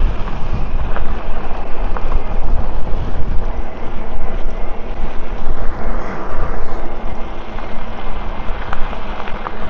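Wind buffeting the microphone while riding a bike: a loud, rumbling rush that rises and falls unevenly.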